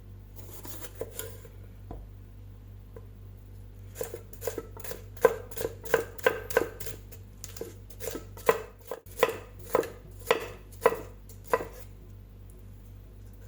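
Kitchen knife chopping on a cutting board in a run of sharp, even strokes at about three a second, starting a few seconds in and stopping near the end.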